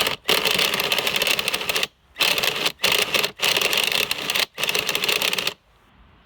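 Power drill spinning the MegaTech P190's .16 nitro engine over through a 14mm socket in five bursts with short pauses between, a fast rattling buzz, trying to get the engine to start.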